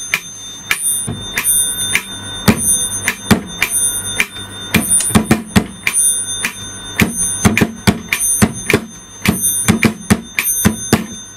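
Mechanical pendulum metronome ticking steadily, about three ticks a second. Its bell dings often between the ticks, as the bell selector is set to its far-left position.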